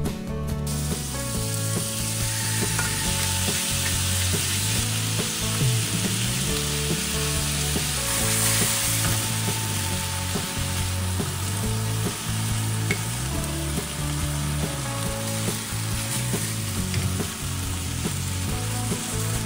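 Lamb pieces and sliced ginger frying in hot oil in a wok, stirred with a wooden spatula: a steady sizzle that starts suddenly about a second in.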